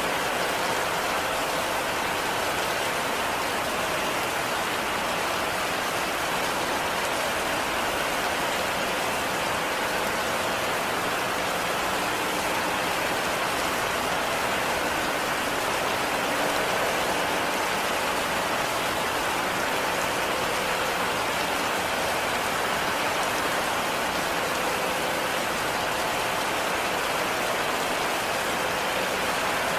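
Heavy rain falling steadily, a dense even hiss of drops with no let-up or single distinct impacts.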